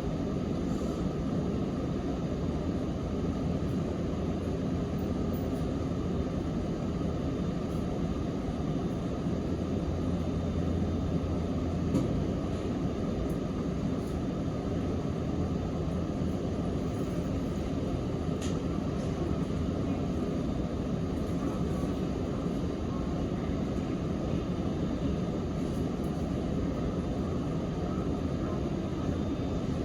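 Sanyo Electric Railway 3050-series train running at a steady speed, heard from inside the passenger car: an even rumble of wheels on rail and running gear.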